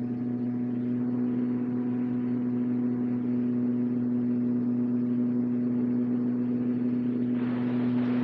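Electric motor and propeller of an RC model airplane running at a steady speed, a constant drone heard from a camera in the cockpit, with air rushing past near the end.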